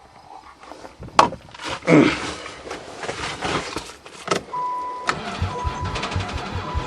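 A couple of sharp knocks, then a Chrysler van's starter cranking the engine over in an even rhythm without it catching, on fresh battery and a dose of ether, while a dashboard warning chime beeps about once a second.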